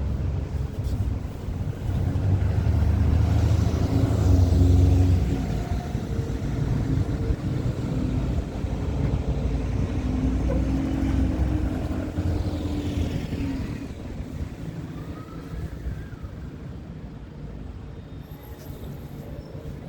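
Buses running past at close range: a low engine rumble that swells as one bus passes, loudest about four to five seconds in, and again as a second one goes by around ten to twelve seconds, then fades away.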